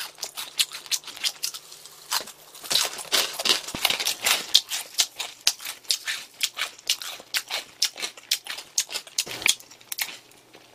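Close-miked crunching as Jagabee honey mild potato sticks are chewed: a quick run of crisp crunches, several a second, thinning out near the end.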